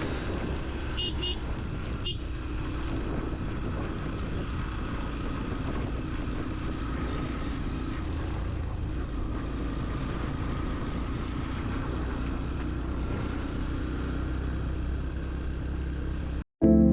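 Motorcycle cruising at a steady speed, its engine's low hum running evenly under road and wind noise; it cuts off suddenly near the end.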